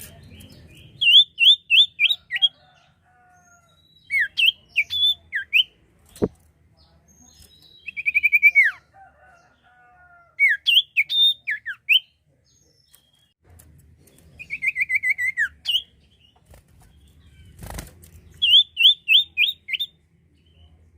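Common iora (sirtu/cipoh) singing: phrases of quick, high, down-slurred notes, some as runs of five, others as fast trills, repeated every few seconds. A short knock sounds twice, about six seconds in and again near the end.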